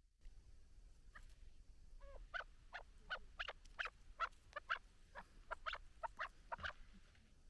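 Chukar partridge calling: a quick run of short, sharp chuck notes, about three a second, starting about a second in and stopping shortly before the end, over a faint low rumble.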